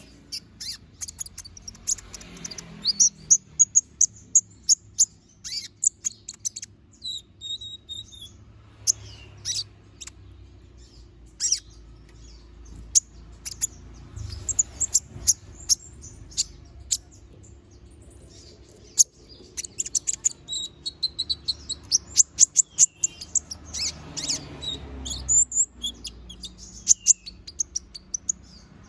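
Kolibri ninja (konin) sunbird singing: runs of sharp, high-pitched chirps and rapid trills in quick succession, with a short lull about halfway through. A faint low hum lies underneath.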